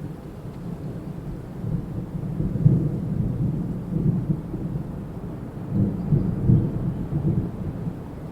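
Wind gusting, a low rumble that swells twice and then eases.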